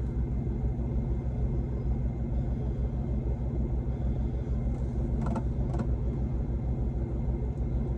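Semi-truck diesel engine idling: a steady low rumble with an even pulse. Two faint clicks come about five seconds in.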